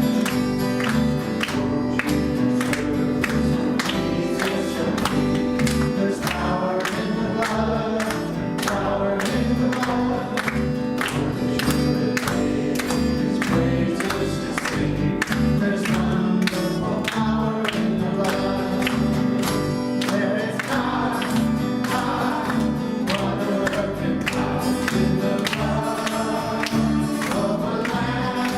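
Live worship music: a band playing with a steady beat while a group of voices sings a gospel-style song.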